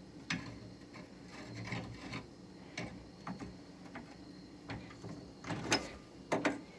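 Scattered clicks, light knocks and rubbing of hands working on parts inside a car door, with the sharpest knocks a little before the end.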